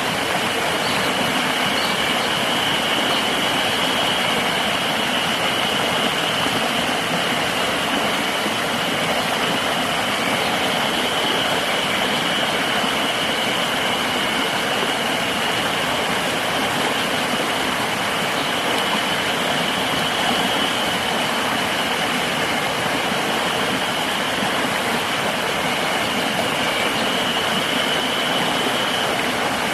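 River water rushing steadily, with a continuous high-pitched insect drone over it that swells and fades slightly.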